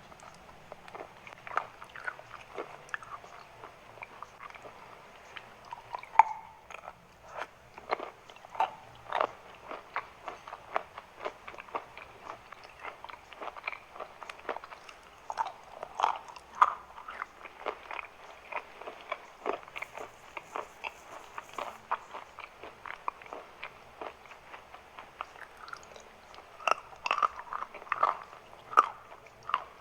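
Close-miked mouth crunching and chewing of chalk: a run of irregular sharp crunches and crackles, a few of them much louder bites.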